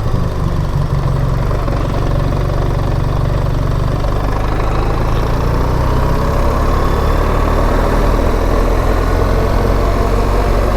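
BMW R 1300 GS's boxer-twin engine running steadily at low revs while the bike is ridden, under a steady rushing noise.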